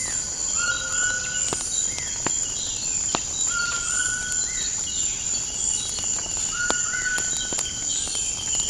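A fire crackling, with sharp pops every second or so, over birds calling in a repeating pattern of gliding and level notes and a steady high insect drone.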